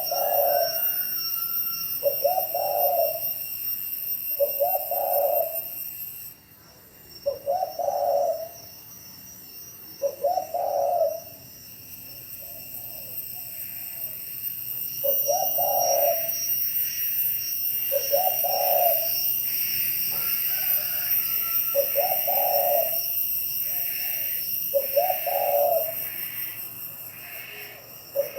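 Spotted dove cooing in the quick, pressing 'gáy thúc' style, a short coo phrase repeated about every two seconds.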